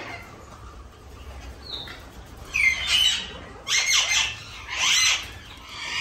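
Caged birds squawking: about four harsh calls roughly a second apart, starting about halfway through, each falling in pitch.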